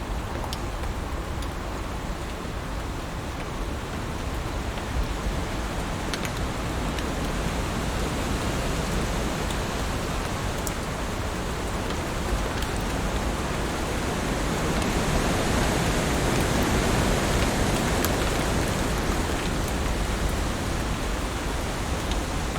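Heavy rain falling steadily, a dense hiss with scattered sharp drop ticks, growing a little louder about two-thirds of the way through.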